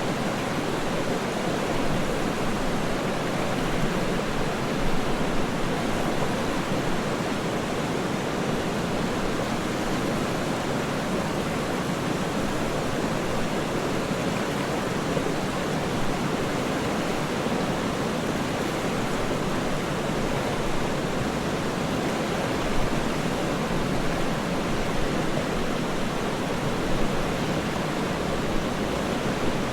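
Waterfall rushing steadily: an even wash of falling water, fullest in the low-middle range, with small irregular flickers in level.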